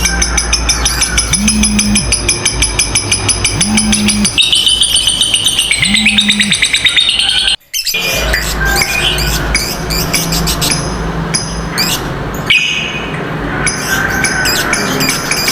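Lovebirds chattering in long, rapid, high-pitched runs: the 'ngekek panjang' call that keepers prize. The sound cuts out for a moment about halfway through, then the chattering resumes.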